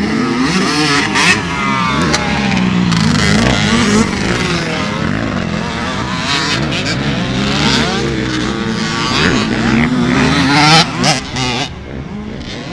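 Several motocross dirt bike engines revving hard, their pitch climbing and dropping over and over as the riders throttle up and shift, loudest about eleven seconds in before easing off.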